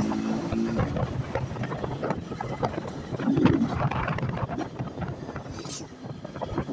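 A motorcycle being ridden, its engine hum under rough wind buffeting the microphone, with a short pitched drone early on and again about halfway through.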